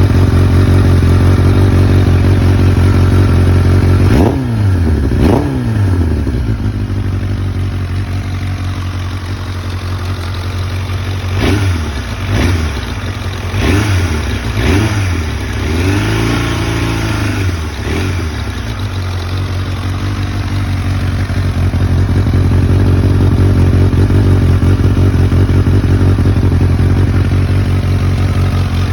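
1996 Kawasaki ZX-7RR inline-four, running cold through a Muzzy titanium exhaust. It idles steadily and is blipped sharply twice about four seconds in and four more times between about eleven and fifteen seconds. It then revs up and down more slowly before settling back to a steady idle.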